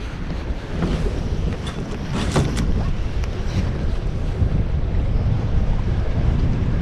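Strong wind buffeting the microphone in a steady low rumble, with waves washing against the boat.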